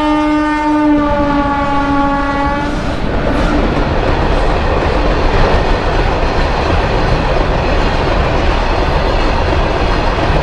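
Locomotive horn of a goods train sounding one long blast that ends about three seconds in, then the steady rumble and wheel clatter of the freight wagons passing the level crossing.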